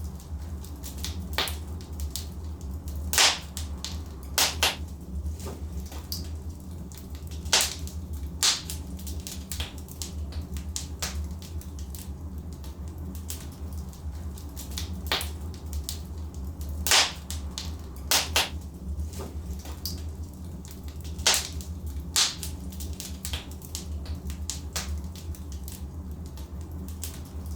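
Wood logs burning in a fireplace, crackling with irregular sharp pops over a steady low rumble of the flames. The loudest snaps come about three seconds in, near seven and a half seconds, and around seventeen seconds.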